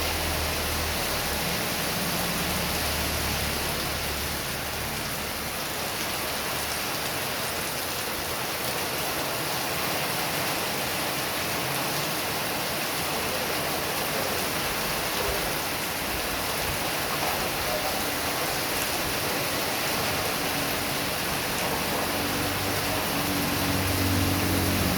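Heavy rain pouring steadily, a dense even hiss. Near the end a low engine hum grows louder as a vehicle approaches on the road.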